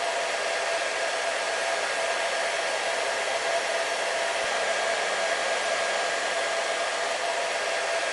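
Electric hair dryer running continuously on a steady setting: an even rushing of blown air with a constant motor whine, unchanging in level.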